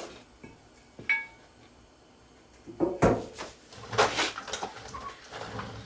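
Metal clinks and knocks from a brake rotor being slid off the hub and set down: a light strike with a short ring about a second in, then heavier knocks and scraping around three and four seconds in.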